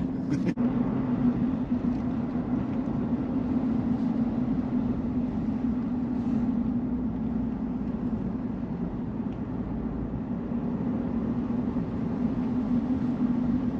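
Steady drone of a vehicle driving on the road, heard from inside the cabin: a constant low hum from engine and tyres.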